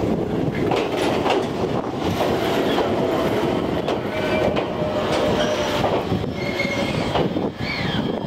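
Ichibata Electric Railway Series 1000 electric train rolling into a station, with its wheels clicking over the rail joints. Squealing tones start about halfway through, and a falling squeal comes near the end as the train slows.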